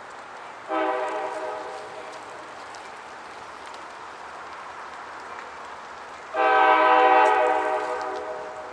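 Air horn of a CSX EMD GP40-2 diesel locomotive sounding two blasts, a shorter one about a second in and a longer one of about two seconds near the end, each a steady multi-note chord, over a faint steady rumble.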